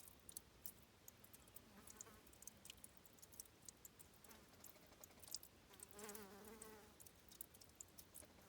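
A flying insect buzzing past, its wavering hum loudest about six seconds in and fainter twice before, over faint scattered high clicks in a quiet background.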